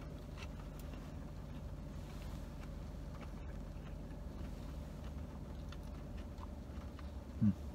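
Someone chewing a bite of crispy fried chicken sandwich, with faint crunching ticks over a steady low hum inside a parked car. A short voiced 'mm' comes near the end.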